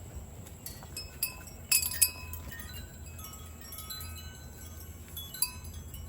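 Metal wind chimes ringing, struck at irregular moments so that several high tones overlap and hang on, over a steady low hum.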